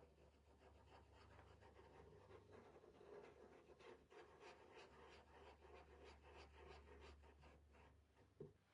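Faint, quick scratchy strokes of a stencil brush working paint over a stencil, several strokes a second.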